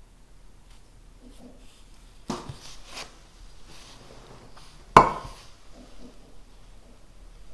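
Small hard objects handled and set down on a desk. There is a knock a little over two seconds in and a louder, sharper clack about five seconds in, with faint small rustles between them.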